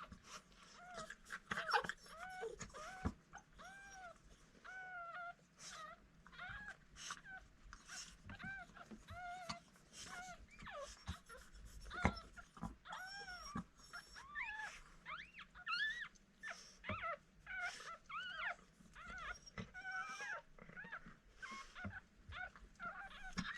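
Newborn cockapoo puppies whimpering and squeaking: short high cries that rise and fall, repeated a few times a second, sometimes two pups crying at once.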